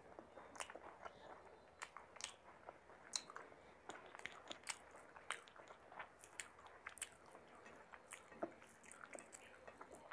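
Faint chewing of a mouthful of chicken biryani, with irregular wet clicks and lip smacks.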